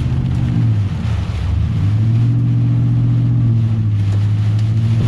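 Truck engine droning steadily while driving; its pitch drops about a second in, climbs back within a second, then holds steady.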